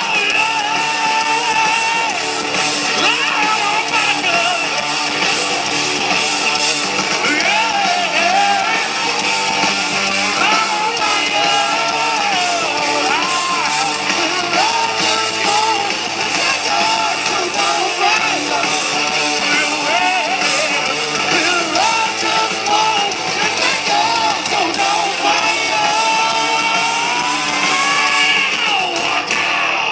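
Live rock band playing loudly, with guitars, drums and a man's voice singing and shouting over them.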